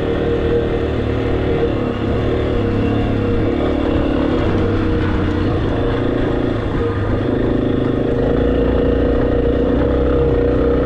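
Motorcycle engine running while riding, its pitch stepping up and down several times with the throttle.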